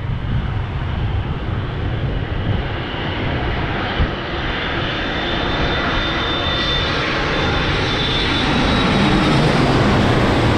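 Jet airliner's engines running at high power as it passes close by, a steady loud roar with a thin whine on top that builds gradually and is loudest near the end.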